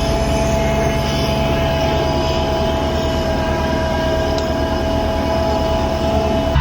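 Kubota BX compact tractor's three-cylinder diesel engine running steadily under load, with its PTO-driven front-mount snowblower spinning and a steady whine over the engine's drone.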